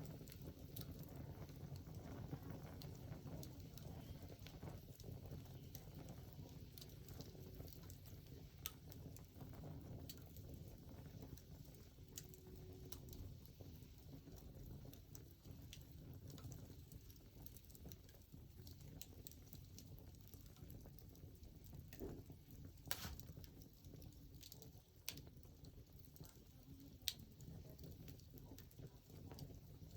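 Wood fire crackling faintly, with irregular small pops and snaps, a few sharper ones near the end.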